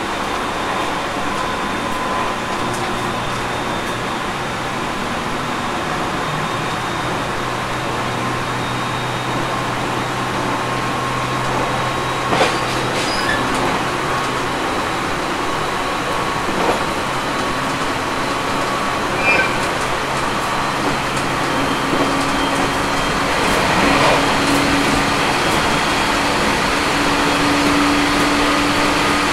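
Running noise of an Aoimori Railway 701-series electric train heard from on board, with the air conditioning on: a steady rumble of wheels on rail with a few sharp clicks. A faint tone rises slightly in pitch over the last several seconds.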